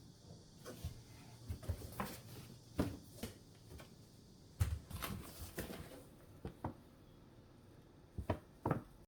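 Irregular light knocks and clicks of objects being handled and set down, one or two at a time. The sharpest knock comes about halfway through, and a pair comes near the end.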